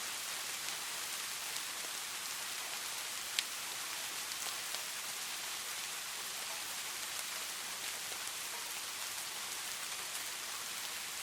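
Steady rain falling, an even hiss with scattered individual drop ticks and one sharper drop hit a few seconds in.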